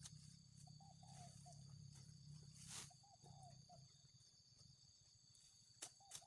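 Faint outdoor ambience: a steady high insect drone with a short, repeated chirping call recurring every second or so, and a few sharp clicks near the end.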